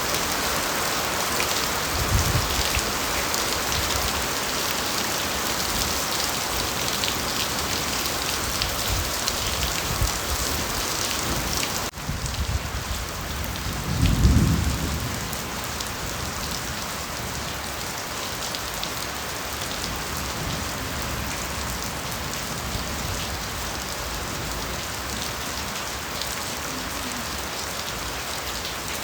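Steady heavy rain falling on bamboo foliage, dense pattering with a brief low rumble about halfway through.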